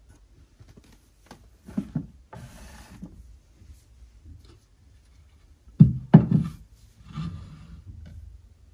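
Household objects being handled and set down: light knocks about two seconds in, a short rustling or scraping stretch, then two louder thumps about six seconds in followed by more rustling.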